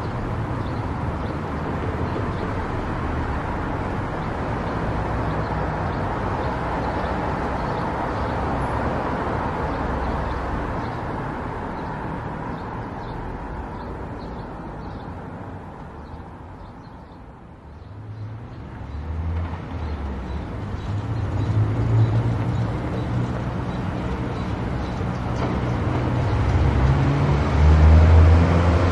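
Car driving: a steady rush of road and engine noise fades down about two-thirds of the way through as the car slows. The engine note then builds again and is loudest near the end as the car accelerates.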